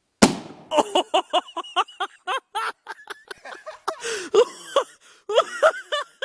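A baking-soda-and-vinegar bottle bomb bursts with one sharp bang about a quarter second in, followed by a person laughing in quick repeated bursts.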